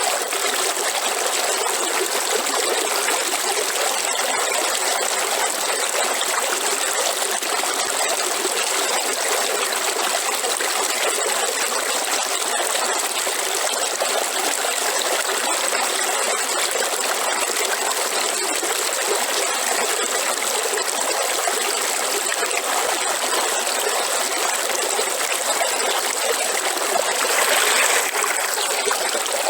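River water flowing steadily over stones, with a brief, slightly louder surge near the end.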